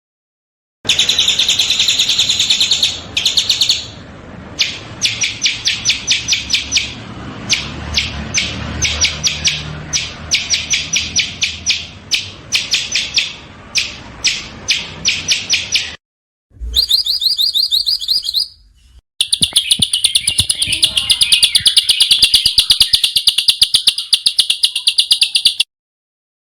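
Small songbirds chirping in fast, rapid-fire trills and chattering note series, high-pitched. The recording is spliced: it cuts in and out abruptly between takes, and the last segment is a dense, steady run of very fast notes.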